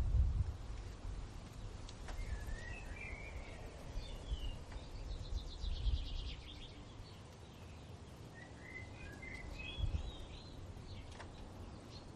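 Songbirds singing: a warbling phrase a couple of seconds in and another near the end, with a fast high trill between them, over a low rumble of wind that swells at the start.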